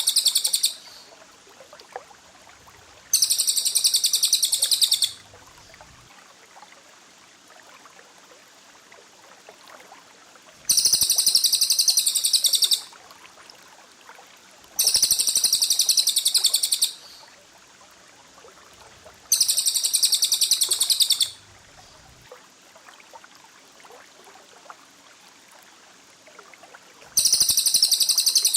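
Cage-bird master song of the 'tembakan rapat' kind: bursts of sharp, very rapid, high-pitched trilling about two seconds long, repeated every few seconds, with faint background noise between bursts.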